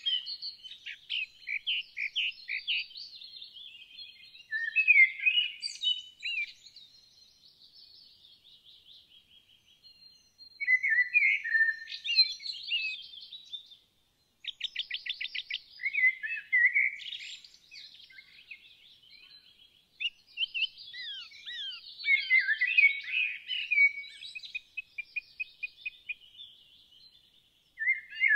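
Songbirds singing: bursts of chirps and warbled phrases with short pauses between them, and a fast trill about halfway through.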